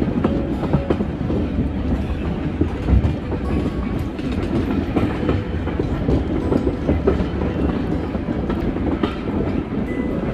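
Heritage steam railway train on the Isle of Wight Steam Railway, heard from a carriage window: a steady low rumble with the wheels clicking and clattering on the track.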